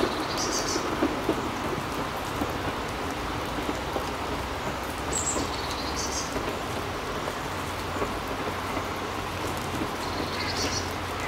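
Steady rain pattering. A bird's short chirping call sounds three times: at the start, about five seconds in, and near the end.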